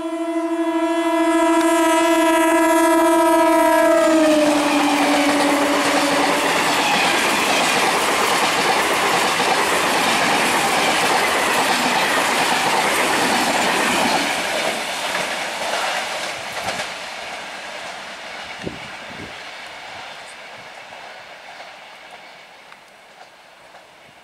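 Indian electric multiple-unit train sounding a long, steady horn as it approaches, the horn dropping in pitch as the train reaches the listener about four seconds in. The noise of the coaches running past follows, loud until midway, then fading away as the train recedes.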